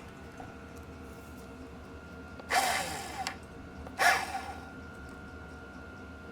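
Grease gun with a needle adapter squirting grease into a bike wheel bearing: two short hissing, sputtering squirts about a second and a half apart.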